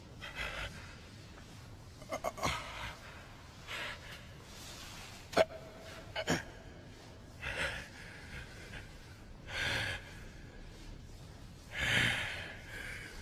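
Voice-acted gasps and heavy breathing, coming in short separate breaths through the stretch, with the longest near the end, and one sharp click about five seconds in.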